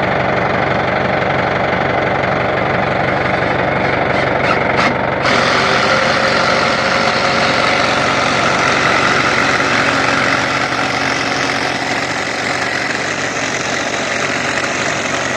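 Engine running steadily with a knocking idle, picking up and running harder about five seconds in.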